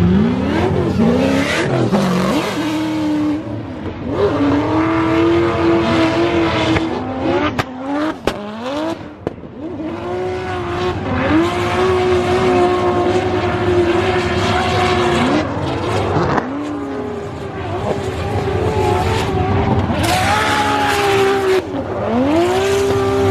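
Drift cars sliding in tandem: the engines rev up and hold high for long stretches, with sharp drops and re-climbs in pitch several times, over tyre squeal.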